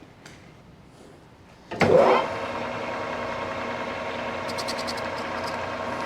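Precision Matthews lathe switched on about two seconds in: a loud start-up surge, then the spindle motor and headstock gearing running steadily with an even whine. A few light clicks come before it starts.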